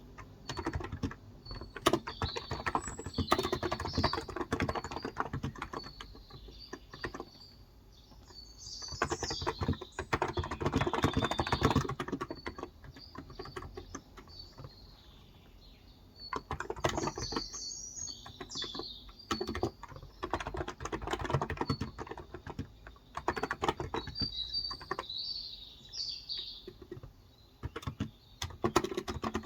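Typing on a Cox Endeavor tenkeyless keyboard with 35 g electro-capacitive switches: fast runs of keystrokes in several bursts with short pauses between them. Birds chirp now and then.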